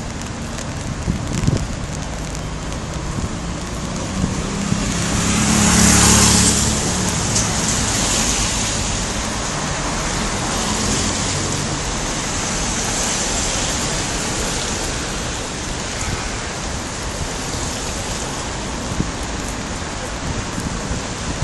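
Rain falling steadily on an umbrella. About five seconds in, a vehicle passes on the wet road, the loudest moment, with a hiss of tyres on water over a low engine hum.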